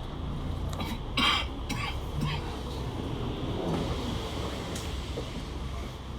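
Steady low rumble of a vehicle engine or traffic, with a short loud noisy burst about a second in and a few faint clicks.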